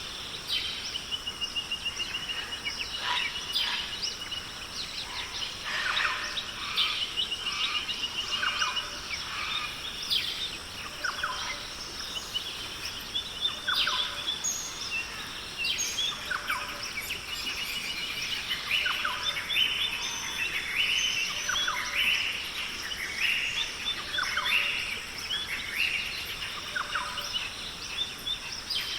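Chorus of Australian rainforest birds calling over one another: short chirps, quick sweeping whistles and rapid trills, over a steady high hum.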